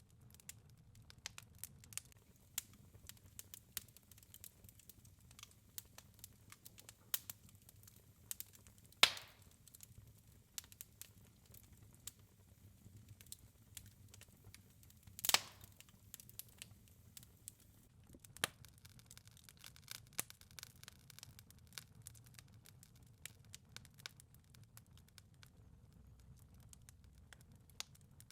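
Wood fire crackling in a fireplace, with many small irregular snaps. Two louder pops come about 9 and 15 seconds in.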